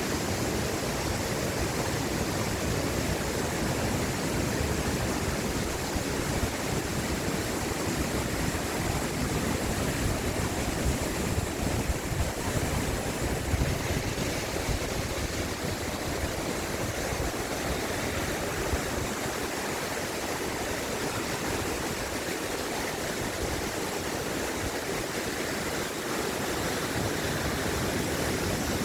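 Mountain valley stream rushing over rocks, a steady, even rush of water.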